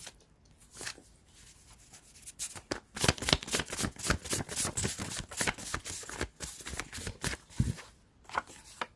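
A deck of cards being shuffled by hand. There are a few soft handling clicks at first, then a dense run of rapid card flicks from about two and a half seconds in until near the end.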